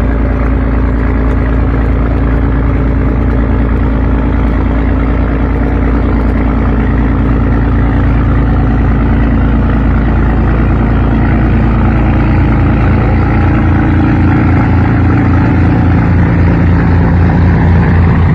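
Scania 550 hp marine diesel engine of a river ferry boat running steadily and loud under way, with an even, pulsing low drone.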